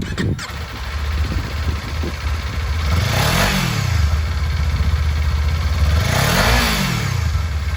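Kawasaki Ninja 400's parallel-twin engine idling, blipped twice so the revs rise and fall, about three seconds in and again about six seconds in.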